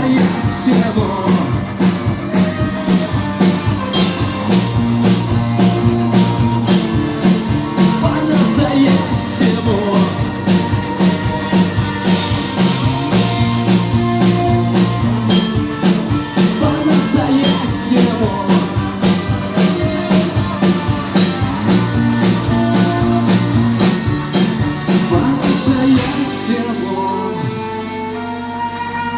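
Live band playing an up-tempo song with guitar and drum kit on a steady beat; the full band drops out about 27 seconds in, leaving softer sustained instrument notes.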